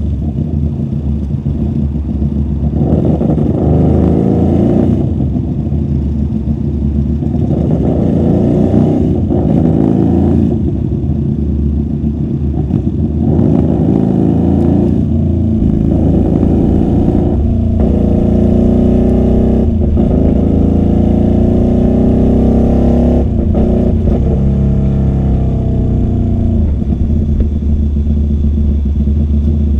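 QJMotor SRV250 V-twin motorcycle engine through a custom 2-into-1 exhaust, its note climbing and dropping back again and again as the bike accelerates through the gears, heard muffled from a microphone inside the rider's bag.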